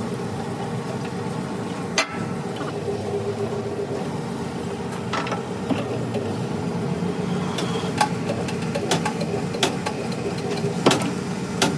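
An engine running steadily at idle, with sharp metallic clicks and knocks at intervals, more of them near the end.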